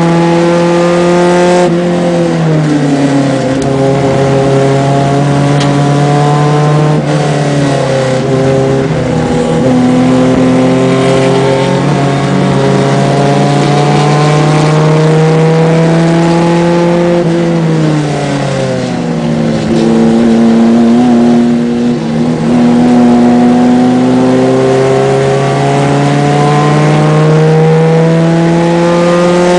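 BMW 2002 race car's four-cylinder engine under racing load, heard from inside the car. Its pitch drops sharply twice, about two seconds in and again past the midpoint, as the car brakes and downshifts, and climbs slowly in between as it pulls out of the corners, over steady road and wind noise.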